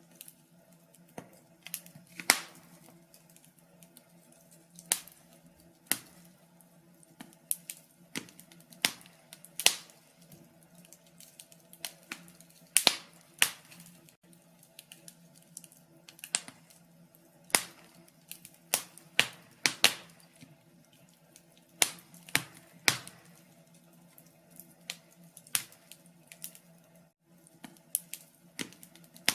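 Wood fire crackling in a fireplace: irregular sharp pops and snaps, some in quick clusters and a few much louder, over a faint steady low hum.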